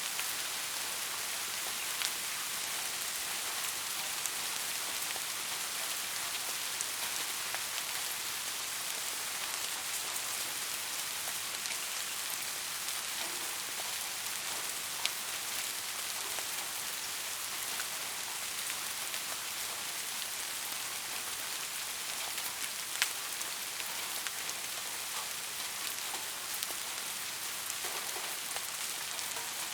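Steady rain falling as an even hiss, with a few louder single drop ticks scattered through it.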